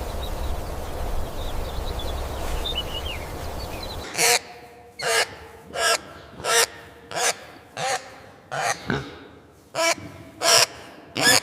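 Steady background noise with faint high chirps, then about four seconds in, a bird gives a run of about ten short, harsh calls, roughly one and a half a second.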